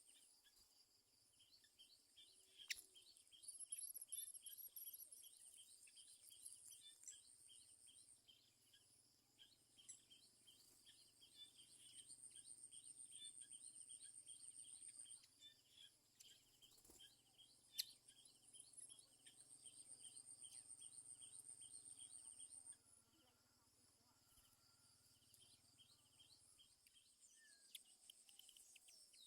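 Faint insects chirping in fast, even pulses, with a high steady trill that comes and goes in stretches of a few seconds. Two sharp clicks stand out, one early and one past the middle.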